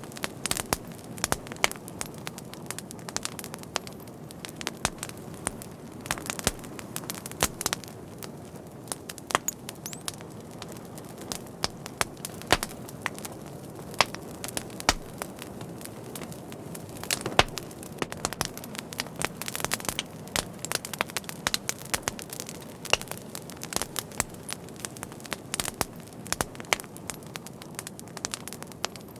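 Wood fire crackling: frequent sharp pops and snaps, irregular, over a steady low hiss of burning.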